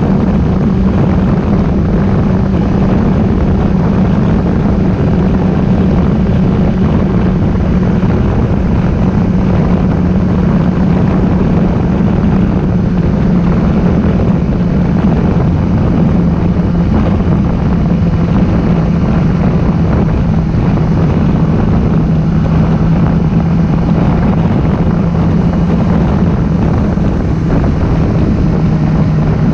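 Motorcycle engine running at a steady speed while riding, with wind rushing over the microphone; the engine note eases slightly lower in the last few seconds.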